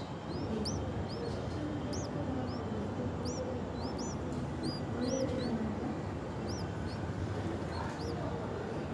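Bulbul nestlings giving short, high, arched chirps, the hunger calls of chicks begging for food. The chirps come thick and fast for the first five seconds or so, then more sparsely, over a steady low background hum.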